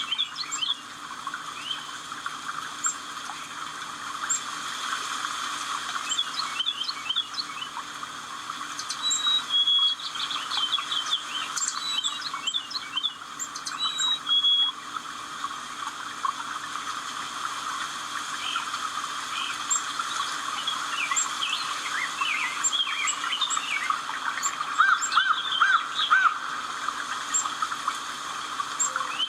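Several birds chirping and singing, with many quick chirps and short high whistled notes scattered throughout, over a steady background hiss.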